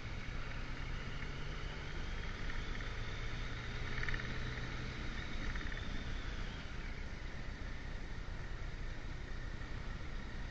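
Motorcycle on the move: a steady engine hum under rushing wind and road noise. A low engine note holds through the first half, then fades back into the wind noise.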